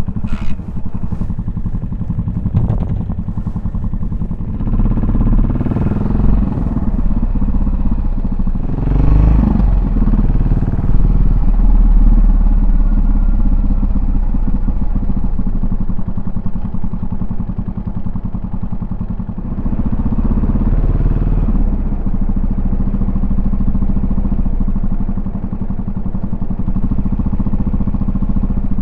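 Exhaust note of a Yamaha SR400's air-cooled single-cylinder four-stroke engine, running steadily under way. It comes in suddenly and loudly at the start, the revs rise briefly about nine seconds in, and it eases off for a few seconds around the twenty-second mark before picking up again.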